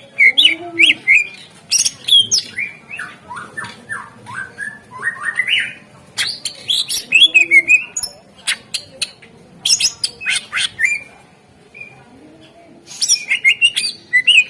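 Greater green leafbird (cucak ijo) singing in loud bursts of fast chirps, whistled up-and-down glides and sharp clicks, with a pause of about two seconds near the end.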